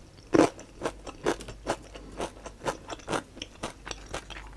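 A person chewing crisp food with the mouth closed, miked close with a clip-on microphone: a steady run of wet crunches about two a second, the first of them the loudest.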